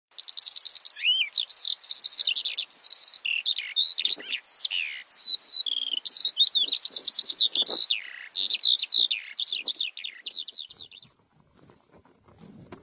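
Javan bushlark singing a long, rapid, varied song of high trills, slurred whistles and chirps, which stops about eleven seconds in, leaving only faint rustling.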